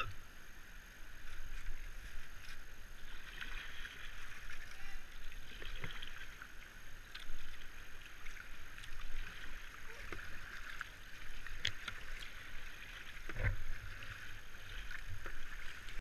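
Moving river water splashing and rushing around a paddled kayak, swelling every second or two, with a few light knocks and a louder thump near the end.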